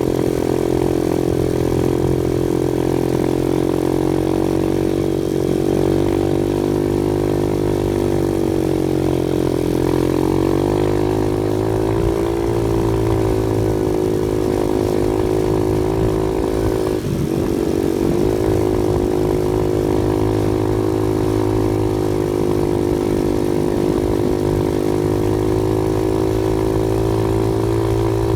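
Off-road vehicle engine running steadily, with small shifts in pitch about ten seconds in and a brief dip about seventeen seconds in as the throttle changes.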